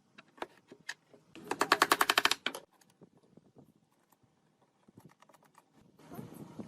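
Scattered light taps and clicks, with a rapid run of loud, evenly spaced clicks lasting about a second, beginning about a second and a half in.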